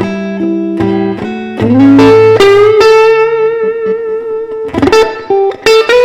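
Electric guitar playing a blues lead fill: a few picked notes, a string bend up about two seconds in into a long held note with vibrato, then a quick run of short notes near the end.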